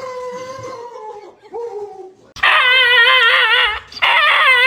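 A dog whining and howling in long, wavering, high-pitched cries. They are softer at first and grow loud about halfway through, with two short breaks between cries.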